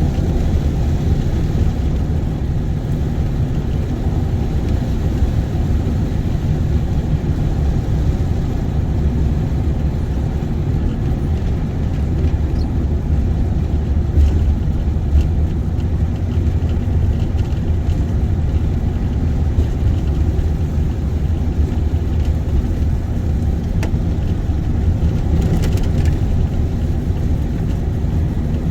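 A car driving at a steady pace, heard from inside the cabin: a steady low rumble of engine and tyres on the road.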